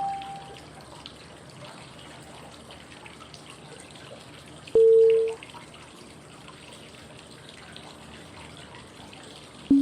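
Steady flowing-water white noise with three short cue tones about five seconds apart, each lower in pitch than the last. They mark the five-second phases of 555 breathing: inhale, hold and exhale. The middle tone is the loudest, and the last one rings on.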